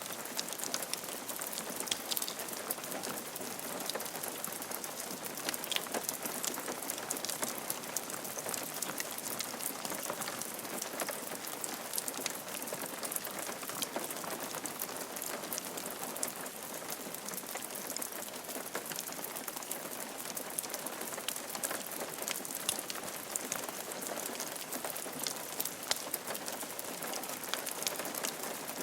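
Steady rain falling on a roof, a dense even patter of many small drop impacts.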